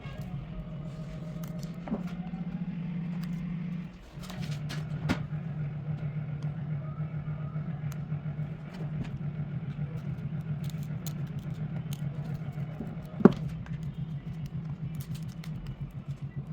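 A motor running steadily with a low, rapidly pulsing hum, like an idling engine. It cuts out briefly about four seconds in and then resumes. Faint scattered clicks sound throughout, and one sharp knock comes near the end.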